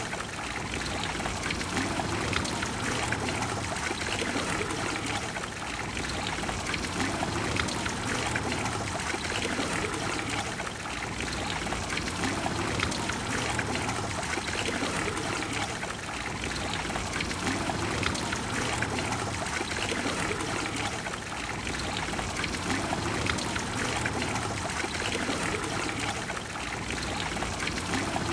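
Trevi Fountain's cascades, water falling and splashing steadily into the basin.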